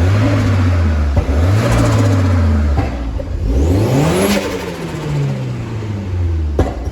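A car engine at idle is revved three times. The first two are short blips; the third, about four seconds in, climbs highest and then falls back to idle.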